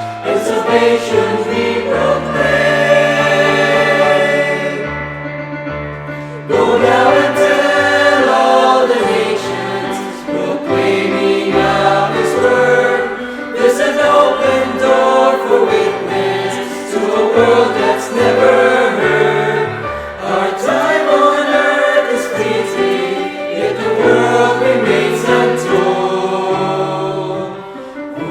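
A gospel choir singing with instrumental backing, long held sung phrases over a steady bass line.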